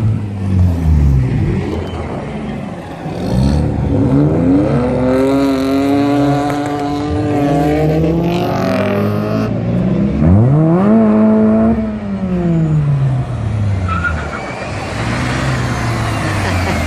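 Modified car engines accelerating as the cars drive off, revs climbing and dropping several times, with one sharp rev about ten seconds in.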